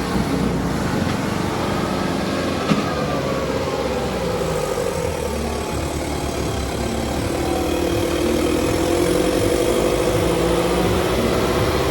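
Kubota 5501 tractor's diesel engine running, its pitch climbing steadily over the second half as it revs up. A single sharp knock about three seconds in.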